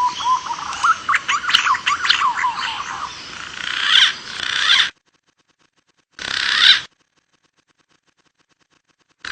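Bird calls: a dense run of quick chirps and sweeping whistles that cuts off abruptly about five seconds in, followed after a silent gap by one short burst of calls.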